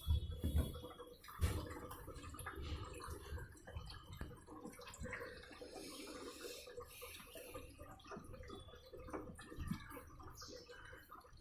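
Sharp ES-Q70ED washing machine running, with water sloshing in the drum over a steady faint motor hum. A few low knocks come in the first second and a half.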